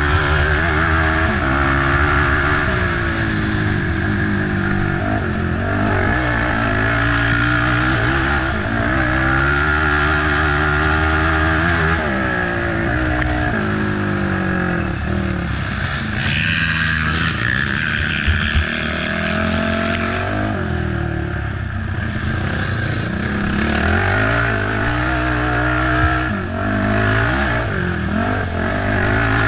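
Racing ATV engine, heard onboard, revving up and falling back over and over as the quad accelerates and backs off. A little past halfway there is a short rattly stretch with a couple of sharp knocks.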